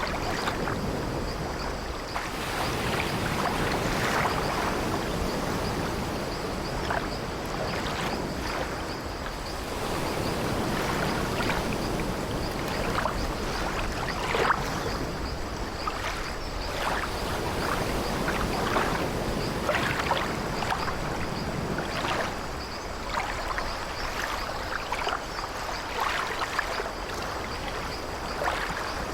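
Steady wash of sea waves around an old wooden sailing ship, with short creaks of the ship's timbers every one to three seconds.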